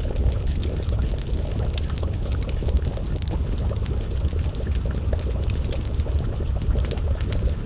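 Wood fire crackling, with frequent short sharp pops and snaps over a steady low rumble.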